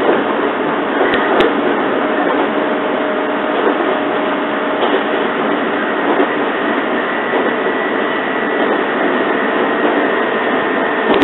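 JR 115 series electric train running at speed, heard from inside the carriage: a steady rolling rumble with a faint steady whine and a couple of rail-joint clicks about a second in.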